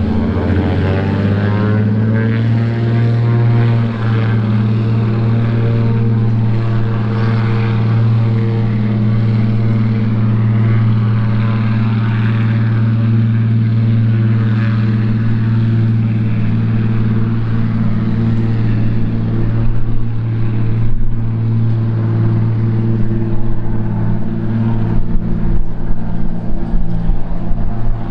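De Havilland Beaver seaplane's radial engine and propeller throttling up, the pitch rising over the first few seconds, then holding a loud, steady drone at high power, as on a take-off run.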